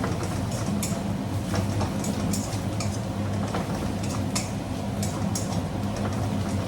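A spatula stirring and scraping spice powders through oil and fried onions in a pan, with short irregular scrapes and clinks about once or twice a second over a steady low hum.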